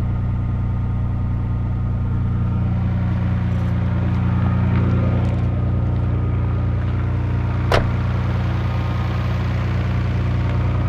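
Nissan R32 Skyline GT-R's RB26DETT twin-turbo straight-six idling steadily. A single sharp click about three-quarters of the way through.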